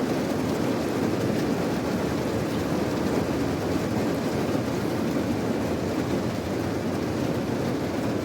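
Steady rain: an even rushing noise, heaviest in the low and middle range, with no separate drops, thunder or breaks.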